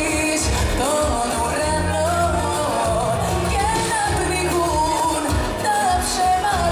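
Amplified live pop music: a singer carrying a melody over a steady, repeating bass line and band accompaniment.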